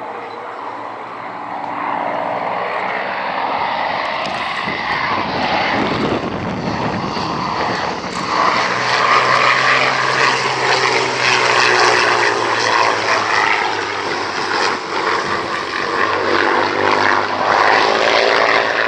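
Propeller-driven aircraft engine running, getting louder over the first several seconds and then staying loud.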